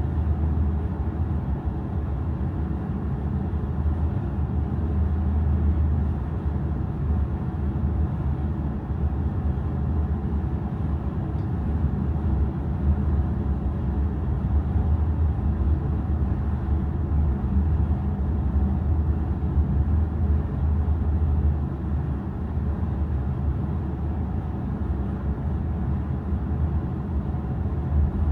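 Steady low drone of a large car ferry's engines and machinery, heard on board while the ship is underway.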